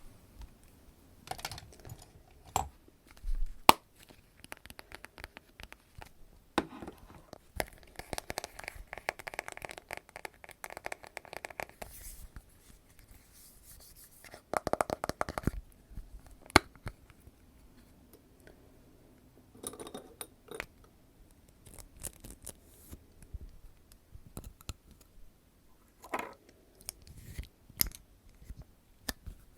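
Close-miked ASMR makeup-roleplay sounds: scattered sharp clicks and taps, with denser runs of scratchy, crinkly noise about 8 to 12 seconds in and again around 15 seconds.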